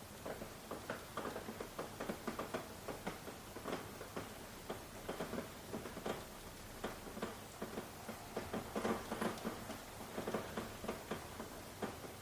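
Raindrops pattering irregularly on a surface, a quick uneven run of separate drips over a faint steady hiss, with a slightly denser cluster of drops around the middle.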